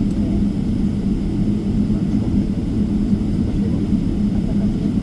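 Boeing 777-300ER cabin noise while taxiing, its GE90-115B jet engines running at low power. The result is a steady low rumble with a constant hum.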